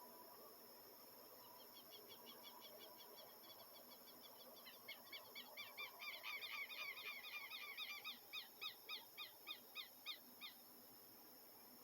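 A bird calling a long run of quick, repeated short notes, faint at first and growing louder about halfway through, then slowing to separate notes about three a second before stopping near the end. A steady high insect hum runs underneath.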